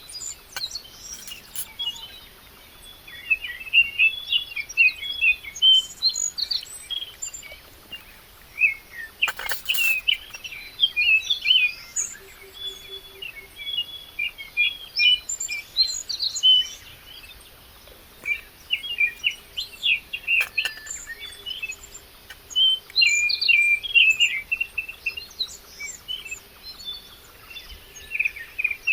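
Several songbirds chirping and singing in quick, overlapping bursts of high trills, with short lulls between, and a couple of faint clicks.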